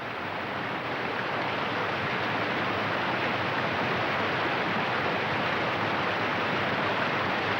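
White water of a river rapid rushing steadily, growing a little louder over the first couple of seconds.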